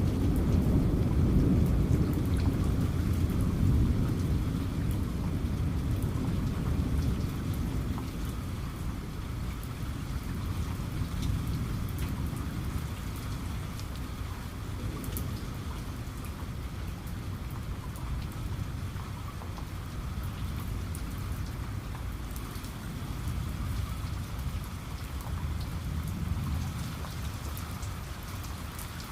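Steady heavy rain with scattered drops pattering, under a low rumble of thunder that is loudest at first and dies away over the first several seconds.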